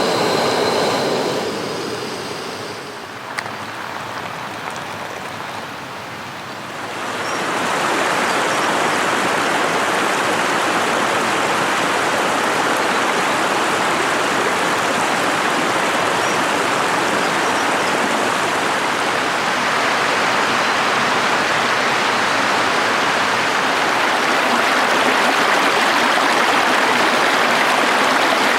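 Rushing stream water, a steady loud hiss that swells in about seven seconds in and then holds.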